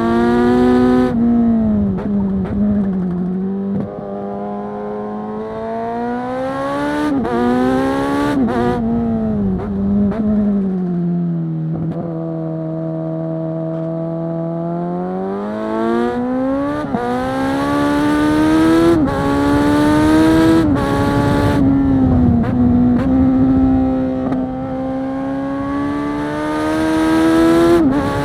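Kawasaki Z900 SE inline-four through a Zard full-system exhaust, loud, revving up through the gears with sudden drops in pitch at the shifts. It eases to a lower, steady note around the middle, then pulls up through the revs again.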